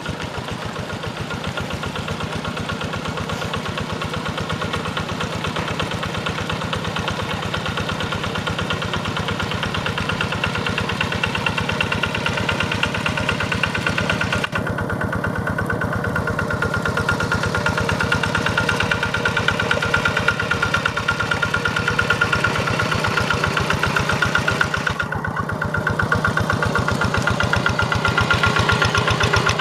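Quick G1000 hand tractor's single-cylinder diesel engine running steadily with a fast, even chug, growing gradually louder.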